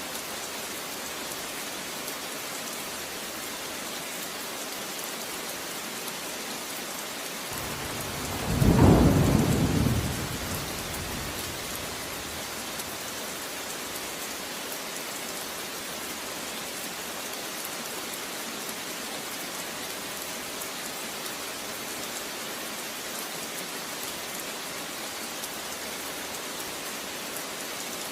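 Steady rain falling as an even hiss, with a single low rumble of thunder about eight seconds in that swells and dies away over some three seconds.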